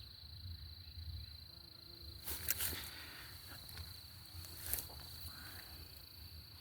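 Crickets trilling steadily at one high pitch, with two short rustles, about two and a half seconds in and again near five seconds.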